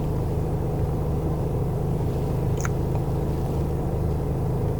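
Steady in-cabin running noise of an LPG-fuelled taxi on the road: a low engine and tyre hum at an even level, with one brief faint high chirp about halfway through.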